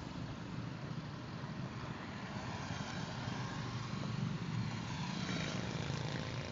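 A vehicle running steadily: a constant low rumble with no clear revving or passes.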